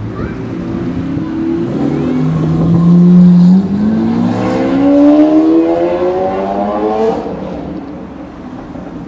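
Performance car engine accelerating hard, its pitch climbing, dropping at an upshift about three and a half seconds in, then climbing again through the next gear before fading away after about seven seconds.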